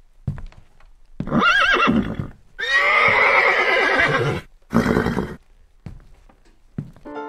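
Horse whinnying: a wavering, quavering call about a second in, followed by a longer, rougher neigh and a short burst near the middle.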